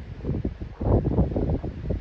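Gusty wind buffeting the microphone in irregular pulses, growing stronger a little under a second in.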